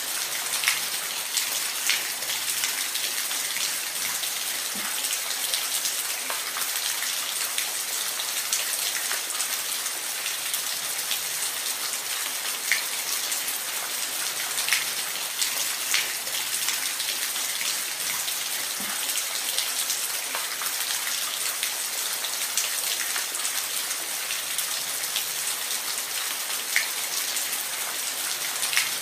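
Waterfall: a continuous hiss of falling water, with scattered sharp drip-like splashes every second or two.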